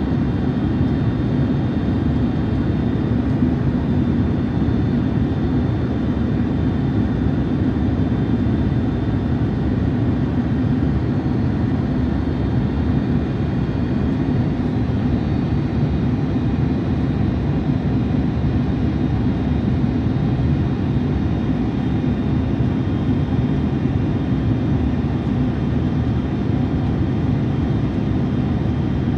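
Steady cabin noise of a jet airliner in flight, heard inside the cabin: an even engine and airflow rush with a low hum and no changes.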